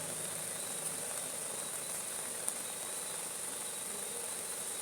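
Steady high-pitched insect chorus over an even hiss of rain, with one short click about two and a half seconds in.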